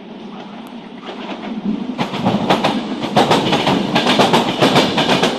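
Renfe train approaching along the track, growing louder over the first two seconds, then its wheels clattering over rail joints in a rapid run of clicks as it goes by.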